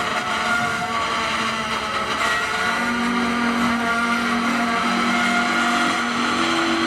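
Freight train rolling by: a steady roar of steel wheels on rail, with several high metallic squeals held over it.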